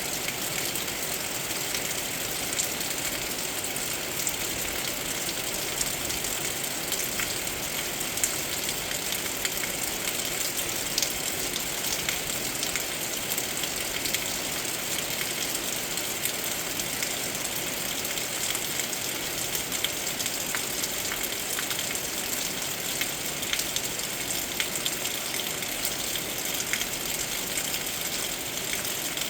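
Steady heavy rain, an even hiss of falling water with many individual drops ticking sharply through it.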